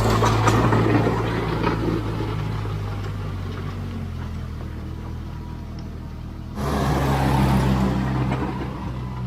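David Brown 30 tractor engine running steadily under load while working a back blade through muddy silt. The note dies down after the first couple of seconds, then jumps abruptly louder about two-thirds of the way through.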